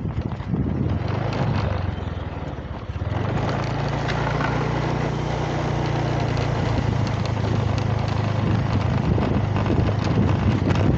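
A motor running steadily with a low hum that settles in about three seconds in, over wind rumbling on the microphone.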